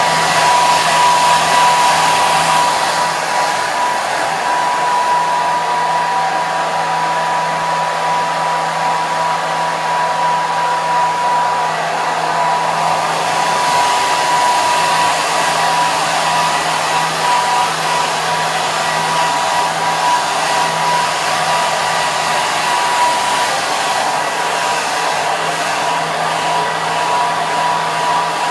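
Hair dryer running continuously: a steady rush of blown air with a constant whine from its motor and fan.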